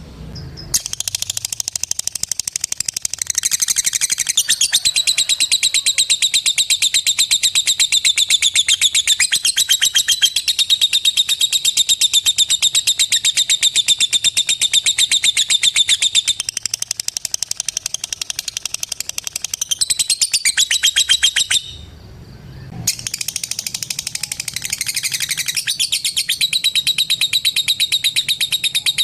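Lovebird "ngekek": a long, very fast chattering trill of short sharp notes repeated many times a second, high-pitched and unbroken except for a brief stop near the start and a pause of about a second past the middle.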